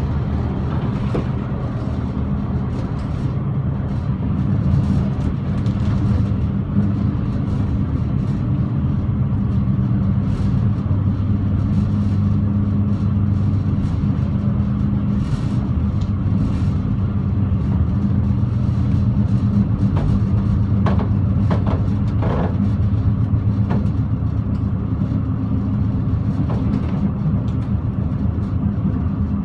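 Passenger train running at speed, heard from inside the carriage: a steady low rumble and hum, with a short cluster of knocks about twenty-one seconds in.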